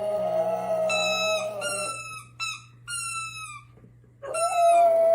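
Dog howling in two long, steady, held notes, one in the first two seconds and another starting about four seconds in, with short falling yips in between.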